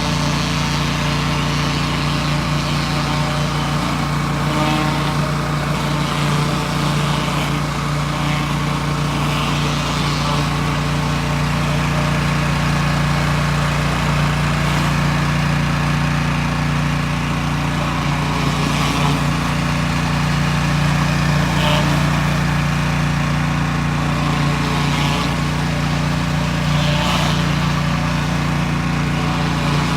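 Small gas engine of a pressure washer running steadily under load, with the hiss of high-pressure water spraying from a surface cleaner on concrete.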